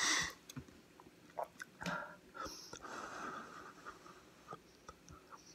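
Faint chewing of a mouthful of hot lasagna, with breathy puffs of air through the mouth as the eater copes with food that is too hot.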